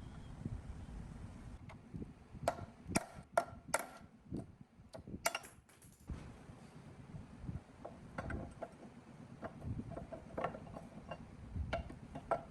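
Hand tools and parts clicking and knocking against each other during an engine teardown: a run of sharp, separate clicks between about two and six seconds in, then softer, quicker taps and knocks.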